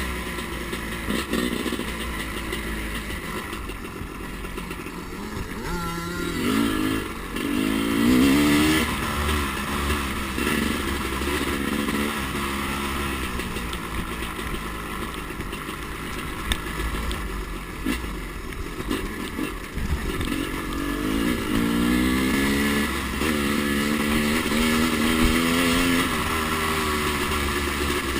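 Two-stroke dirt bike engine riding around a track, revving up and easing off repeatedly as the rider works the throttle and gears.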